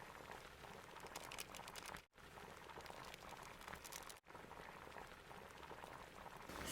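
Faint crackling, bubbling hiss of liquid boiling, cut twice by brief drops to total silence about two and four seconds in.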